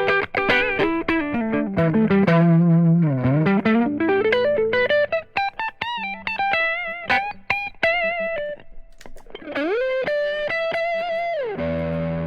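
PRS S2 Custom 24 electric guitar with Seymour Duncan pickups playing a lead line: quick single-note runs falling and rising, notes held with vibrato, a bend up near the end, then a chord left ringing.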